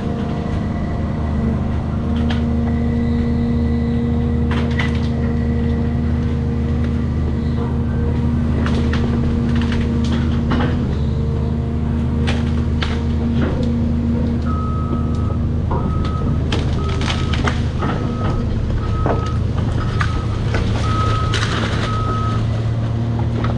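Cat 336 excavator's diesel engine running steadily under load, with scattered sharp cracks and knocks. From about halfway, a high-pitched travel alarm beeps about once a second, the excavator's warning while it tracks.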